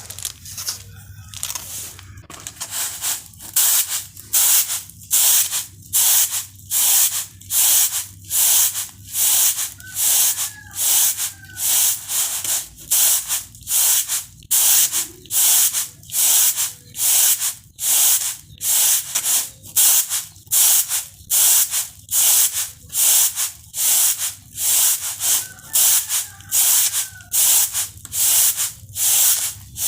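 Rice grains swishing on a woven bamboo winnowing tray as it is tossed to winnow the rice, in a steady rhythm of about three strokes every two seconds, starting about two seconds in.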